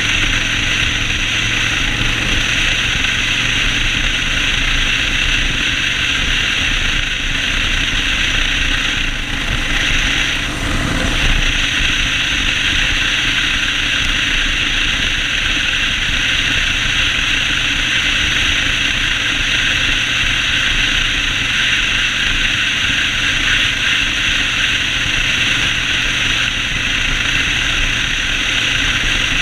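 Yamaha Road Star 1600's air-cooled V-twin engine running steadily while riding, under a continuous rush of noise, with a brief dip about ten seconds in.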